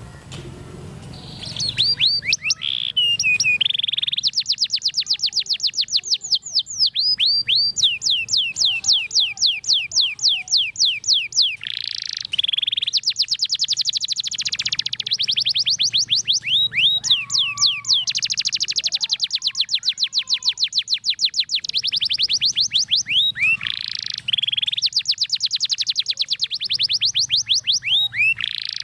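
Domestic canary singing a long unbroken song, starting about a second and a half in. It runs as fast trills of rapidly repeated high notes, each falling in pitch, broken now and then by short buzzy notes.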